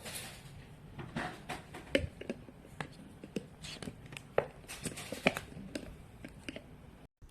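Irregular light clicks and taps of hard objects being handled, a dozen or more, with a few sharper knocks about two, four and five seconds in.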